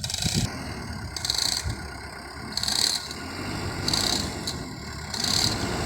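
Diesel truck engine running with a low rumble. A short, high hissing rattle repeats about every second and a half.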